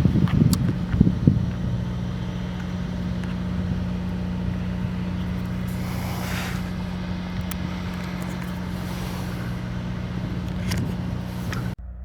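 Car driving at a steady speed, its engine giving a steady low hum over road noise. A few knocks come in the first second or so, and a brief whoosh about six seconds in.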